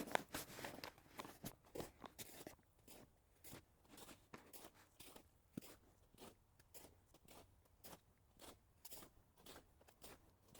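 Footsteps crunching at a walking pace, about two steps a second, with a denser, louder patch of crunching in the first couple of seconds.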